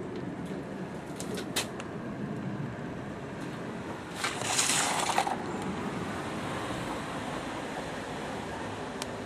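Tap water running steadily into a plastic refill bottle, with a few light clicks in the first two seconds and a brief louder splashing hiss about four seconds in.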